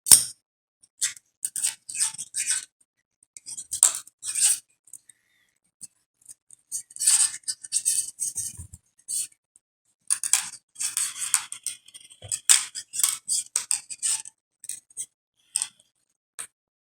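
Plastic pony beads clicking together and 16-gauge aluminum craft wire scraping through their holes as the wire is threaded and pulled tight. The sound comes in irregular clusters of small sharp clicks and scrapes with short pauses between them.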